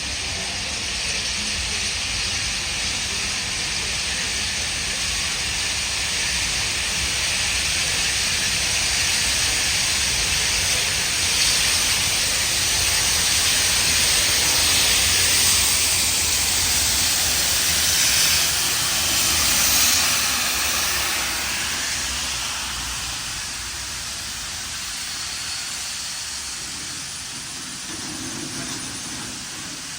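Steam locomotive 3526 hissing steam over a low rumble. The sound grows louder to a peak about two-thirds of the way through, then fades.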